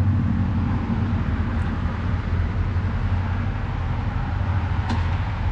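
Motor vehicle engine running with a steady low rumble, and a single faint click about five seconds in.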